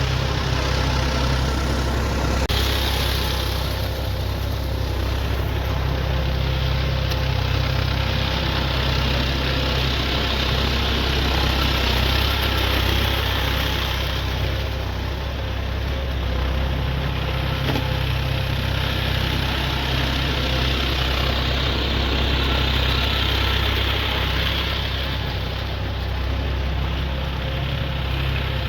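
Swaraj 744 XT tractor's three-cylinder diesel engine running steadily while it drives a rotavator through deep mud, with a higher hiss that swells and fades every several seconds.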